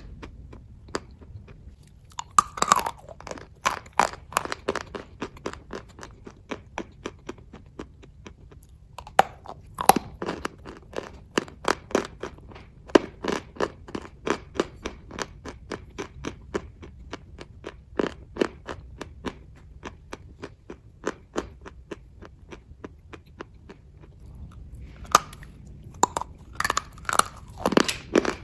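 Close-up chewing of kaju katli (cashew fudge): a steady run of moist mouth clicks a few times a second, with louder bites about two seconds in, around ten seconds and near the end.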